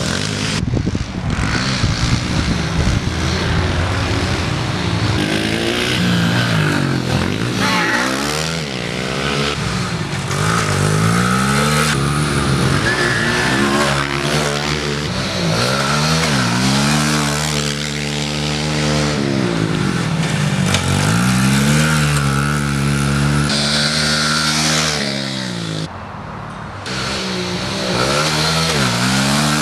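Small four-stroke pit bike engine being ridden hard round a track, revving up and dropping back again and again as the throttle opens and closes through the corners.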